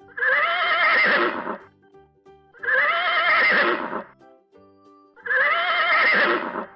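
Horse whinnying three times, each call about a second and a half long with a quavering pitch, over quiet background music.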